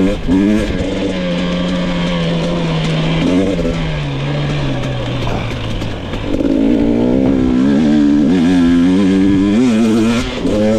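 GasGas EX 250 fuel-injected two-stroke dirt bike engine pulling under throttle. The revs hold steady, fall away about four seconds in, then climb again and stay high with quick throttle blips before backing off near the end.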